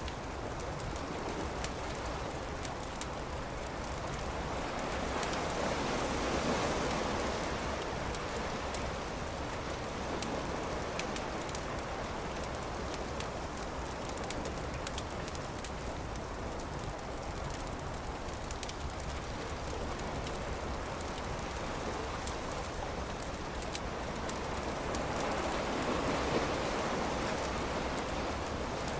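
Campfire crackling with many small, sharp pops over a steady wash of ocean surf. The surf swells up twice, around six seconds in and again near the end.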